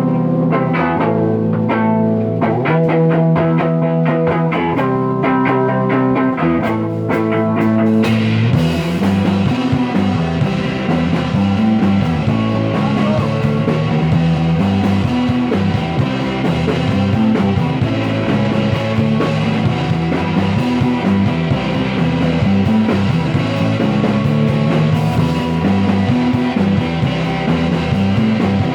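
Instrumental psychedelic rock with electric guitar. It opens as picked chords, then turns into a denser, fuller band sound about eight seconds in.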